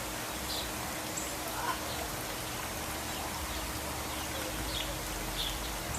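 A few short, faint bird chirps over a steady hiss of outdoor background noise.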